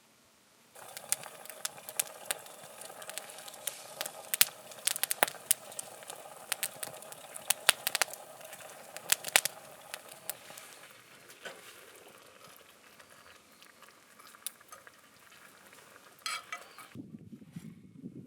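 Food sizzling in a frying pan over a fire, a steady hiss with frequent sharp spattering pops that thin out after about ten seconds. Near the end it changes abruptly to a duller, lower noise.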